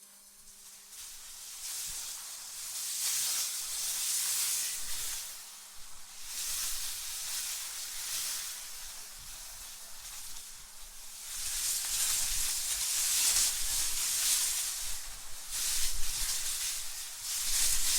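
AI-generated wind blowing in gusts: high, airy noise that swells and fades every few seconds, with a low rumble under the strongest gusts.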